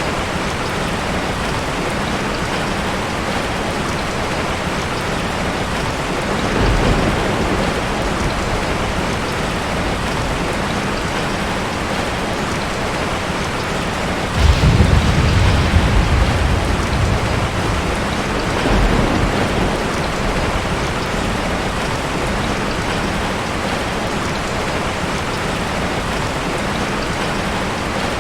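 Steady rain falling. Low rumbles of thunder come in three times: a short one about seven seconds in, a louder one that starts suddenly about halfway through and rolls on for a few seconds, and a brief one soon after.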